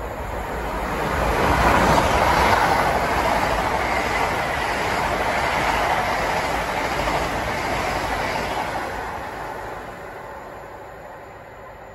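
LNER Azuma express train passing through the station at speed without stopping: a dense rushing rumble of wheels and air that builds over about two seconds, holds steady, then fades away over the last few seconds.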